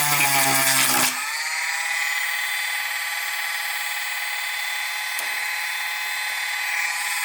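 Battery-powered Dremel 8220 rotary tool with a small grinding wheel, running at a steady high whine. For about the first second it is louder and its pitch shifts as the wheel grinds nubs off a part. It then spins on evenly.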